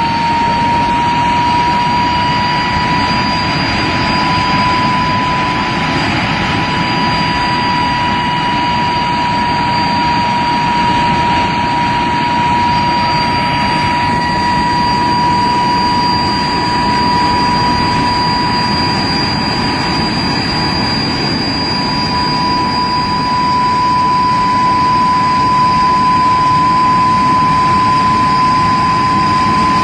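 de Havilland Vampire's jet engine running steadily on a ground run, a loud high whine over a broad rush of jet noise, the whine's pitch rising slightly just at the start. The engine has just been serviced and reinstalled.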